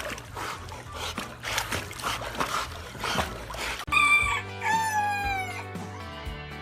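A drawn-out animal call with pitch that falls toward its end, sounding about four seconds in, over quieter background music.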